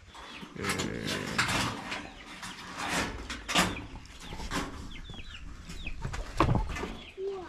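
Domestic chickens clucking in short, irregular calls, with a few brief high chirps about five seconds in.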